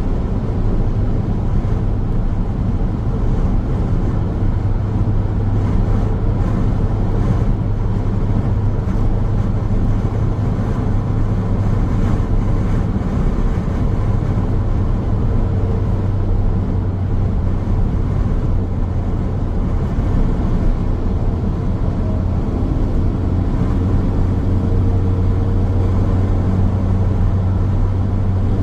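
Car driving along a highway: a steady low engine hum over continuous road and tyre rumble, with the engine note shifting slightly about two-thirds of the way through.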